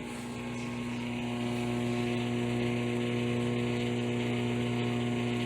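Nostalgia retro microwave oven running a cook cycle: a steady electrical hum and buzz that grows a little louder over the first two seconds.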